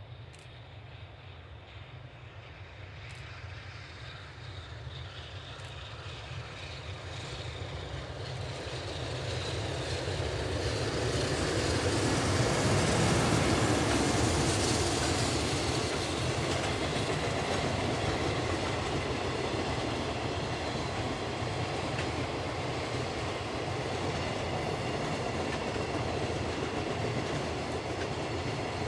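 JR Freight EH500 electric locomotive hauling a container freight train, growing louder as it approaches and loudest as it passes about halfway through, its traction motors whining. The container wagons then roll past steadily, wheels running over the rails.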